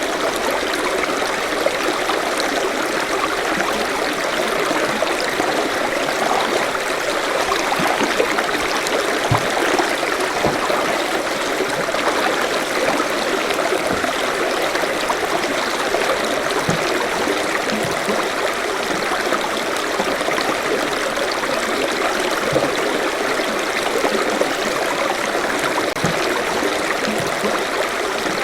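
Forest stream running steadily over rocks, a continuous babble and trickle of water with small splashes.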